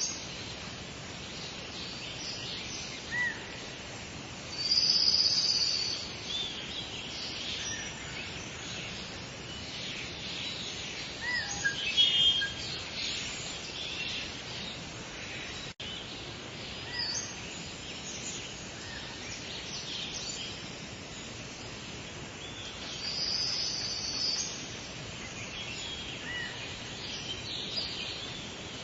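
Several wild birds chirping and singing over a steady outdoor background hiss, with louder high trills about five seconds in and again around twenty-three seconds, and a burst of chirps around twelve seconds. There is a split-second gap in the sound halfway through.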